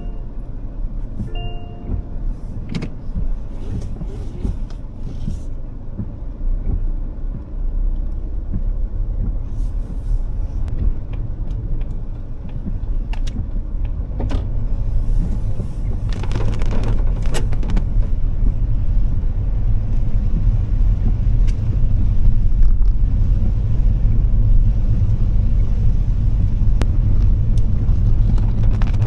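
Heavy typhoon rain and wind around a car: a deep, steady rumble with scattered drops ticking. A louder rush of rain or wind comes about halfway through, and the sound grows heavier toward the end.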